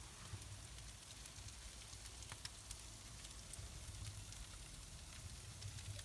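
Wood fire crackling faintly in a wood-fired pizza oven: scattered small pops over a steady soft hiss.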